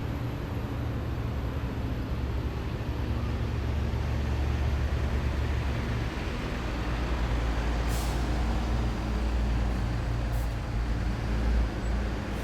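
Heavy military vehicles' diesel engines rumbling deep and steady as they pass in column, getting louder a few seconds in. There are two short hisses of air brakes, about eight and ten seconds in.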